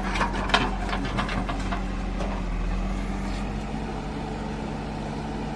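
Tractor engine idling steadily, an even low hum.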